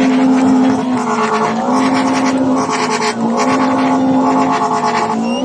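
Car engine held at high revs in a rev-off, a steady high drone that dips briefly a few times and comes straight back up.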